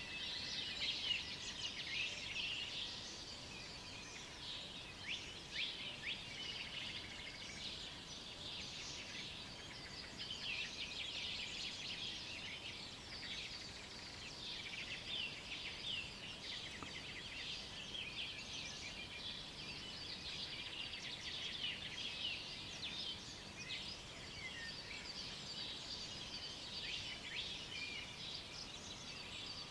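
Dawn chorus of many small songbirds chirping and singing at once, a continuous overlapping mix of short high chirps and trills.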